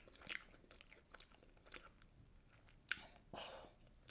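A person chewing food close to the microphone: faint, scattered mouth clicks and small crunches, with one sharper click about three seconds in.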